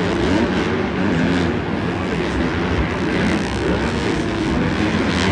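Several dirt bike engines revving up and down at once, their pitches rising and falling over one another without a break.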